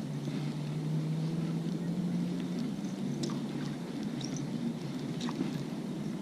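A steady low motor hum, with a few brief high chirps over it.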